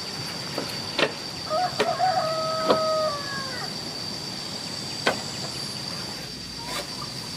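A rooster crows once, about a second and a half long. Behind it runs a steady high whine, with a few sharp knocks scattered through.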